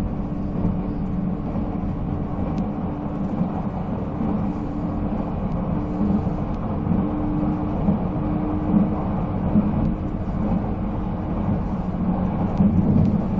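Running noise of a JNR 485-series electric train under way: a continuous rumble of wheels on rail, with the steady hum of its MT54 traction motors. The hum rises slightly about six seconds in.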